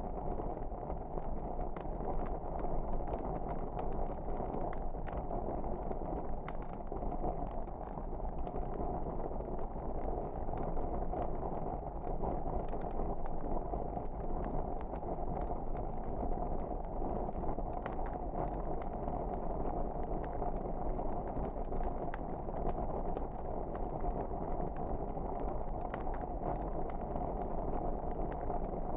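Fireplace fire burning: a steady low rush with small crackles and pops scattered irregularly throughout.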